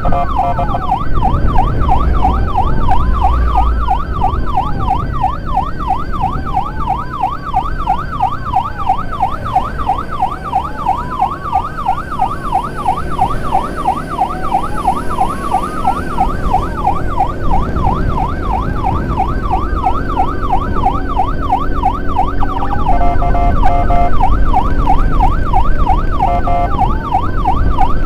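Emergency sirens sound together: a rapid up-and-down yelp runs throughout, while a second siren's slower wail rises in pitch every few seconds. Vehicle engine and road rumble lie underneath.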